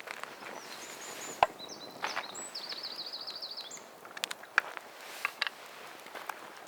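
Firewood being chopped: a handful of irregular, sharp wooden knocks, the loudest about one and a half seconds in.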